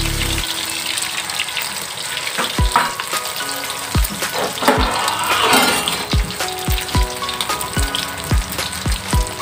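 Stuffed crab shells frying face-down in shallow oil in a wok: a steady sizzling hiss. Background music with a thudding bass beat plays over it.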